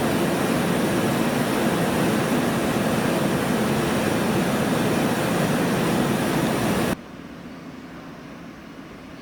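Train running past close by: a loud, steady rumble that cuts off abruptly about seven seconds in, leaving a quieter steady hiss.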